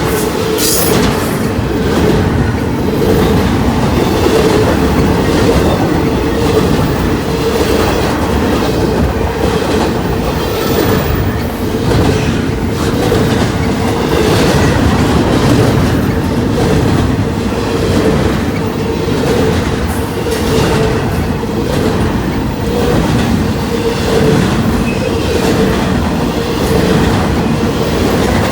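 Train cars rolling past, wheels clicking over the rail joints in an uneven rhythm. A steady whine from the wheels runs underneath.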